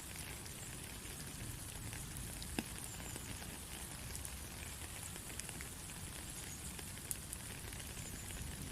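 Rain falling steadily: an even hiss with scattered sharp ticks of drops, a clearer one a little over two and a half seconds in and another about seven seconds in.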